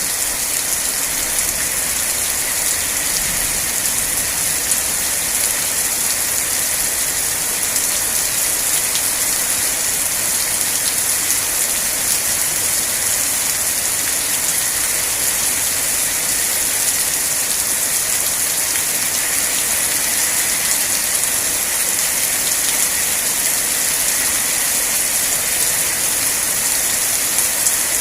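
Steady rain falling: an even, unbroken hiss with a fine patter of drops, strongest in the high range.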